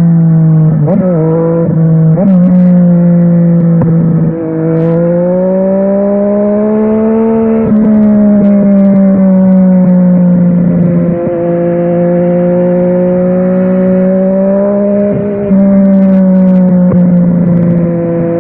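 Yamaha Tracer 900 GT's three-cylinder engine running through a WR Authentic aftermarket exhaust while riding. There are two quick throttle blips about a second and two seconds in, then the engine pulls up slowly through the revs and drops back at a gear change near the middle. After that it holds steady at cruise, with short throttle-off dips.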